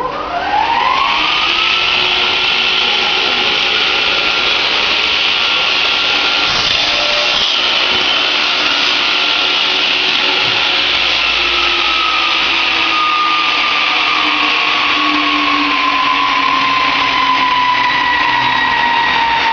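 An electric power tool's motor spinning up within about a second and then running steadily with a loud whine and hiss; its pitch sinks slowly over the second half.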